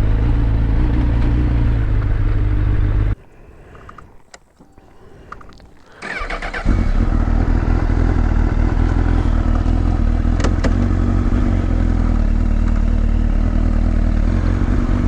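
Motorcycle engine idling, then cut off about three seconds in. After a few seconds of quiet with a few clicks, it is started again and settles back into a steady idle.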